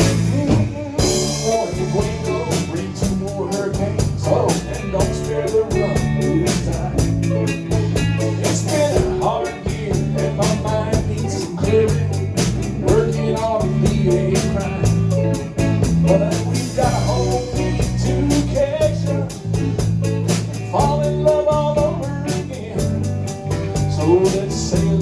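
Live band music: guitar and drum kit playing a mid-tempo blues-rock song with a steady beat.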